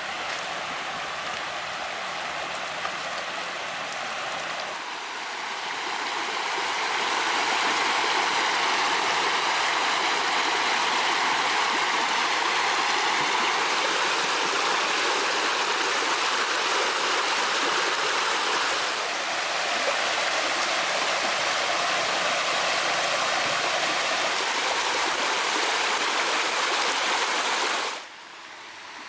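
Flowing water rushing steadily, like a stream or a field channel running. It grows louder about five seconds in, dips briefly around nineteen seconds, and drops off sharply near the end.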